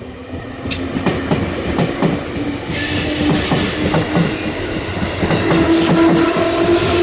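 A train running into or through the station, growing louder, with a repeating clatter of wheels over rail joints. A steady hum rises slightly in pitch and a high wheel squeal sits above it.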